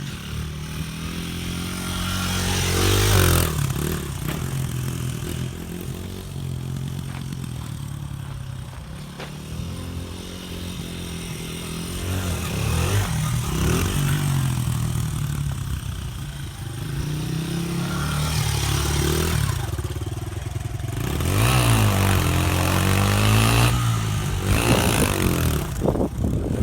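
Pit bike engine being ridden hard, revving up and backing off again and again, with louder surges about three seconds in and over the last few seconds.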